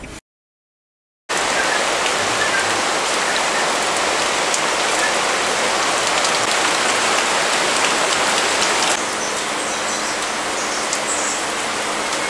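Steady rain falling, a dense even hiss that sets in about a second in and becomes a little quieter about nine seconds in.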